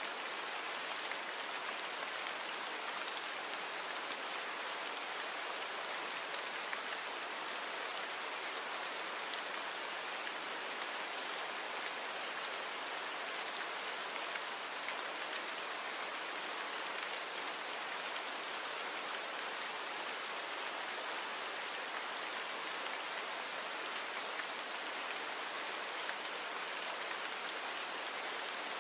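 Steady rain falling, an even hiss of many drops with no pauses or changes, recorded rain with its low rumble filtered out.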